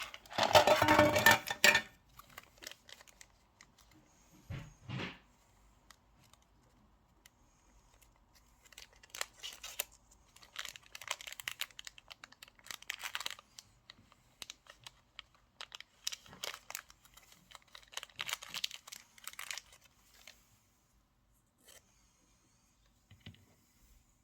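Scratchy, rustling bursts of hands-on bench work, loudest in the first two seconds, with further spells of scratching in the middle and later on.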